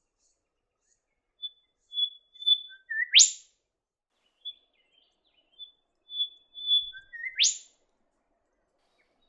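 A songbird singing the same phrase twice: a held high whistle, two short lower notes, then a loud, sharp whip-crack note that sweeps steeply upward.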